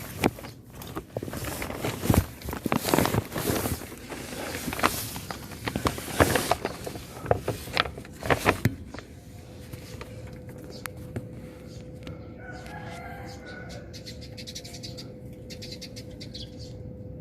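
Scraping, rustling and knocking of someone working their way under a car for about the first nine seconds. After that it goes quieter, with a steady hum and a faint rooster crowing.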